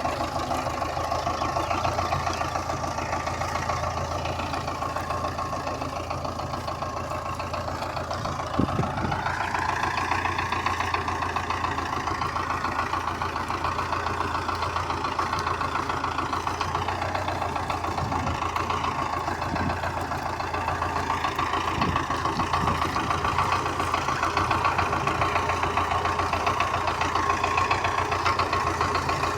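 Diesel engine of a Russian-built tractor running steadily. About nine seconds in there is a short knock and the engine note rises, holding at the higher pitch afterwards.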